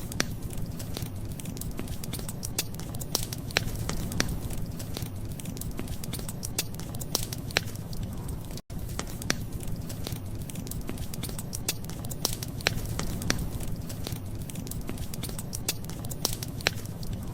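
Wood fire crackling, with frequent irregular sharp pops over a steady low rumble. The sound cuts out for an instant about halfway through.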